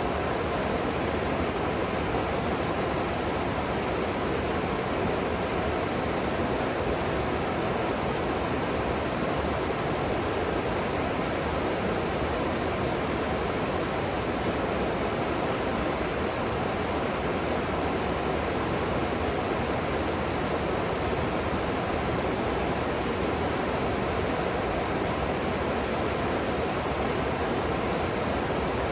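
River water rushing steadily, an even hiss with no separate events.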